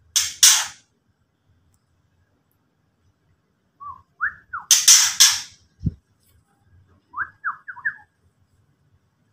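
White-rumped shama (murai batu) giving harsh, rasping 'ketrekan' calls: two near the start and three more around five seconds in, with short down-slurred whistled notes between them. A brief low thump about six seconds in.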